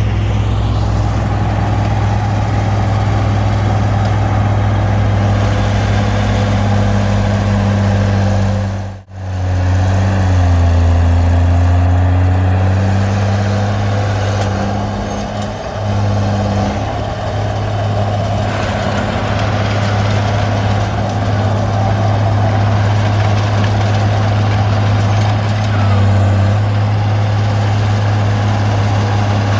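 Komatsu D20P bulldozer's diesel engine running steadily under load while pushing brush. The sound cuts out abruptly for a moment about a third of the way in, then the engine note dips briefly and recovers.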